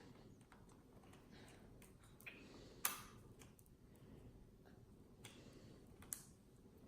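Faint clicks of a Canon PowerShot G7 X Mark II compact camera being handled as its battery is put in, with a sharper snap about three seconds in and another about six seconds in, over near-quiet room tone.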